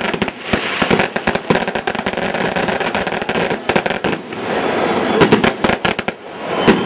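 Fireworks going off in rapid crackling reports. About two-thirds of the way through they thin to a hiss, then a cluster of louder bangs follows, with another loud bang near the end.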